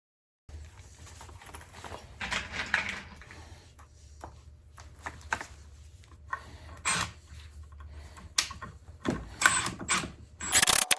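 Power drill driving trim screws into oak in several short runs, with clicks and knocks from handling the wood, over a low steady hum.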